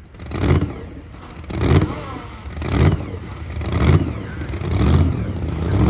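A pulling vehicle's engine revved in repeated short blips, about one a second, with the running sound between blips rising a little toward the end.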